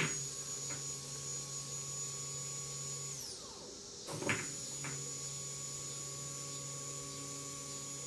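Stock Mitsubishi electric fuel pump from a 2008 Kawasaki Vulcan 1600, powered from a 12-volt source out of the bike: it is switched on twice with a crackle at the connection. Each time it runs with a steady hum and a thin high whine for about three seconds, then winds down in pitch as the power is cut.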